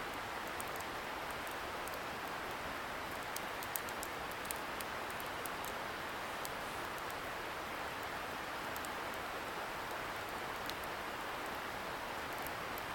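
Wood fire crackling with scattered sharp pops, the loudest a little under four seconds in, over a steady hiss from a distant river.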